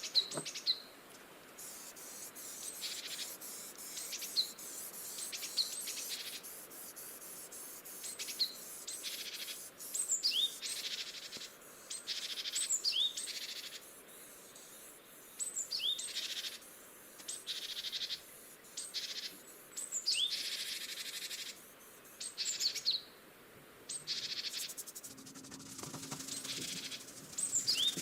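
Small birds chirping over and over, short high rising calls, over patches of scratchy hiss. A faint low hum comes in near the end.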